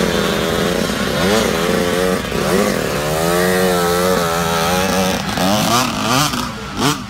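Small dirt bike engines revving, their pitch rising and falling again and again over a steady lower engine drone.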